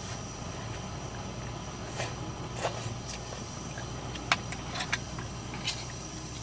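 Steady rain hiss with a handful of light, sharp clicks and knocks scattered through it, the loudest about four seconds in.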